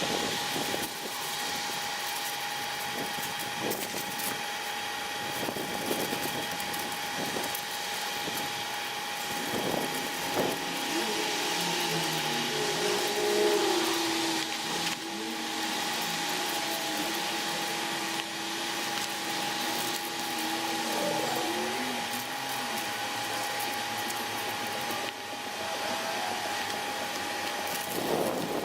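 A power tool running steadily, with a constant whine over a hiss.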